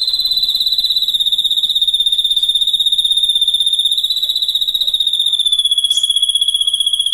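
A high, rapidly pulsing insect-like trill, held steadily and sinking slightly in pitch.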